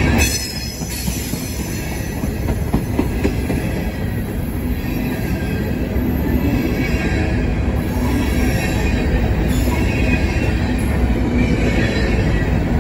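Empty covered hopper cars of a Norfolk Southern grain train rolling past close by: a steady rumble of steel wheels on the rails, with high wheel squeal coming and going.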